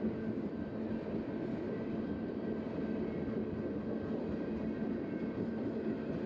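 Freight train cars rolling steadily past a road crossing: a continuous rumble and clatter of steel wheels on the rails, with a faint steady hum underneath.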